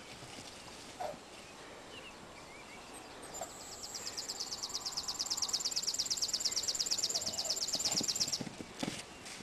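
A bird's high, fast, even trill that begins a little over three seconds in and runs for about five seconds before stopping abruptly. A few soft knocks come near the end.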